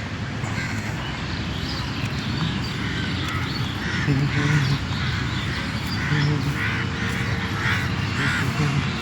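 A bird calling repeatedly, about five or six short harsh calls in the second half, over steady background noise.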